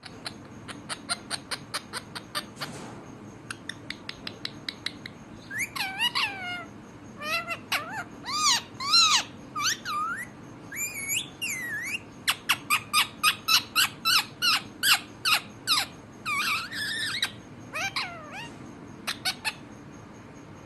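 Parrot calling: fast runs of short chattering notes alternating with gliding, whistled squawks that bend up and down in pitch.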